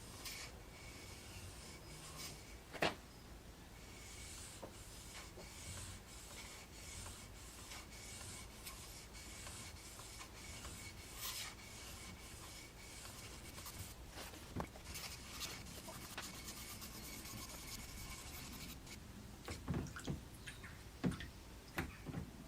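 Abrasive rubbed back and forth by hand over a rusty knife blade, a steady run of about two scraping strokes a second that stops near the end, followed by a few sharp knocks.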